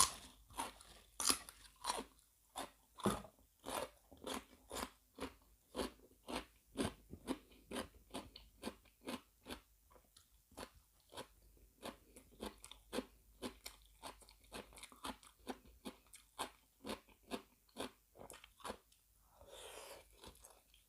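Close-up chewing of a mouthful of seafood larb with fresh raw vegetables: a steady run of crunching chews, a little under three a second.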